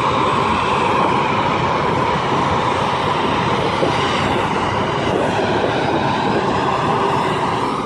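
Jet airliner engines running loud and steady, a dense noise with a strong whine that wavers slightly in pitch.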